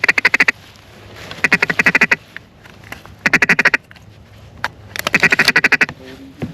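Duck call blown in quick strings of quacks, four runs of rapid notes a second or so apart, calling to incoming ducks.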